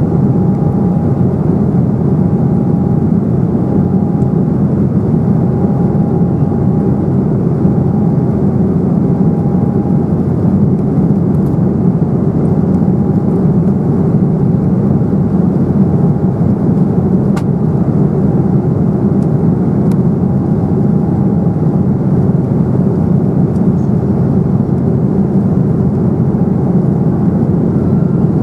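Steady cabin roar inside an Embraer 195 in flight: its wing-mounted GE CF34-10E turbofans and the air rushing past the fuselage. A faint higher hum drifts in and out over the roar.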